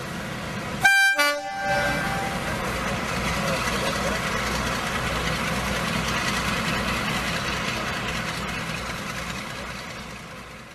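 A train sounds a short toot about a second in, then a steady rumbling train running noise that swells and fades away near the end.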